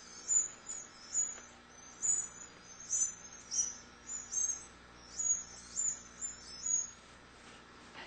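Canaries chirping: short, high chirps repeating about twice a second, stopping near the end.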